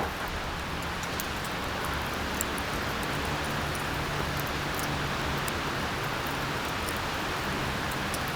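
Steady rushing noise of outdoor ambience, even throughout with no distinct events.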